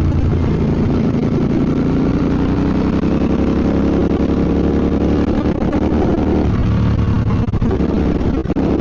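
Royal Enfield Bear 650's 648 cc parallel-twin engine running on the move, its pitch climbing slowly and then dropping about six and a half seconds in.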